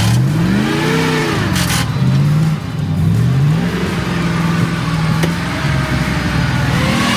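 ZIL 131 army truck's V8 petrol engine revving up and down several times as the truck is driven, with a short hiss about a second and a half in.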